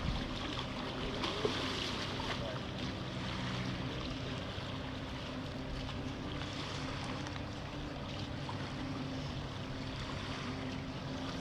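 Lake water sloshing and lapping, over a steady low hum.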